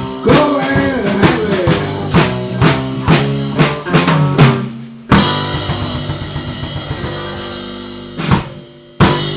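Live band with drum kit and bass playing a run of accented hits to end a song, then one big final hit about five seconds in whose cymbal wash rings out and fades. Two more single drum hits come near the end.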